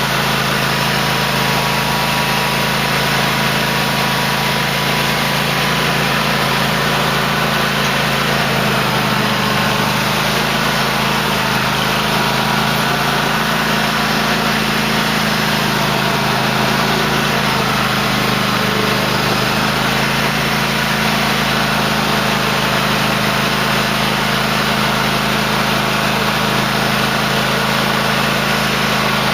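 Cub Cadet LT1050 lawn tractor's engine running steadily, its note shifting slightly about nine seconds in.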